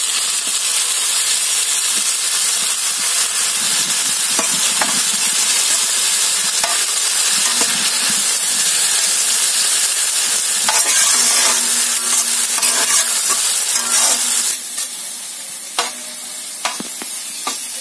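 Chopped tomatoes sizzling loudly in hot oil with sautéed onions in a large kadai, stirred and scraped with a metal ladle. The sizzle eases somewhat about three seconds before the end.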